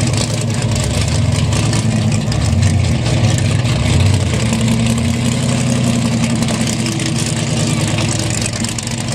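A drag car's engine idling loud and steady, its note shifting slightly about four seconds in.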